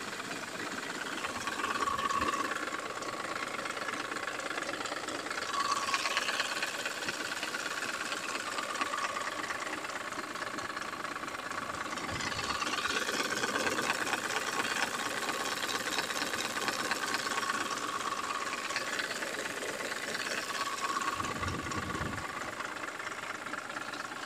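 Car engine running with a knock in it; the sound swells louder several times and settles back.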